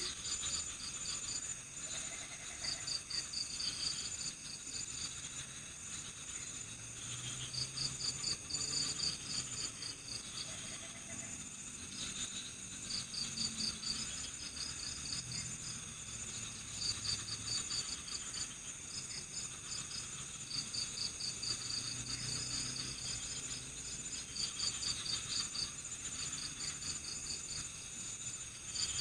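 Night-time chorus of crickets: one cricket chirping in rapid pulsed trills of a second or two, with short pauses between bouts, over a steady high-pitched insect drone.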